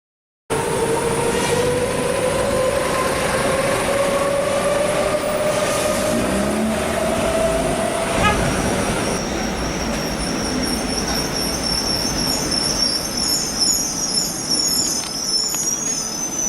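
Train running past on the rails with a whine that slowly rises in pitch. From about halfway a high, wavering squeal of the wheels sets in, typical of a train leaning through a curve.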